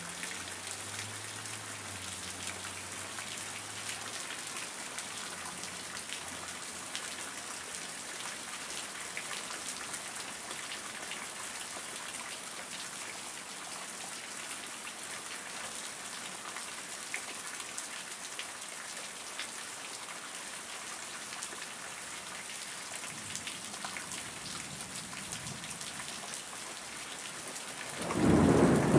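Heavy rain falling steadily on grass and standing water, a dense hiss of drops with scattered small ticks and splashes. Near the end a loud rumble of thunder breaks in.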